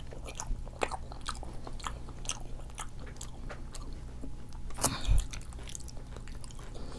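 Close-miked eating sounds: chewing with many short wet mouth clicks, and a louder bite about five seconds in.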